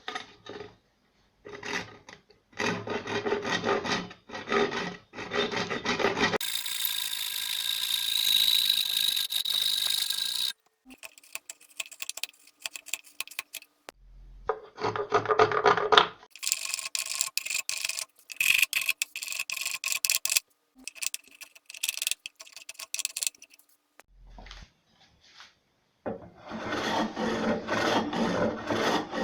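Hand tools working wood, with rasping and sawing strokes in several short bursts broken by sudden silences. A steadier hiss runs for a few seconds in between.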